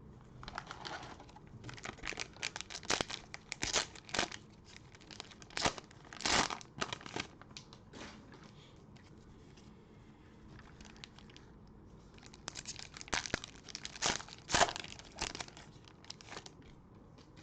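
Crinkling and tearing of a plastic cello-pack wrapper as a pack of Optic basketball trading cards is ripped open and crumpled, in two bouts of sharp crackles with a quieter gap between.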